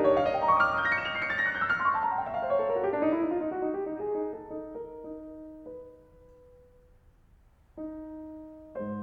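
Solo piano background music: flowing runs of notes that die away to a quiet pause, then a soft chord about eight seconds in and another as the phrase starts again.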